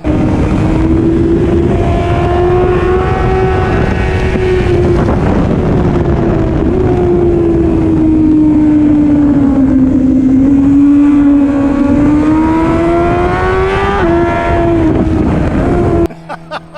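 Suzuki GSX-R1000 superbike's inline-four engine running hard at speed under heavy wind noise, its pitch drifting slowly up and down. It starts and cuts off abruptly.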